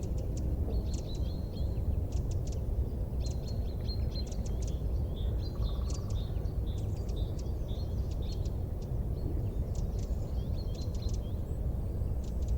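Small birds chirping in quick runs of short, high twitters over a steady low rumble.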